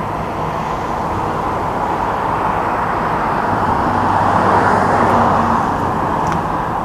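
A road vehicle driving past, its tyre and engine noise swelling to a peak about two-thirds of the way through and then easing off.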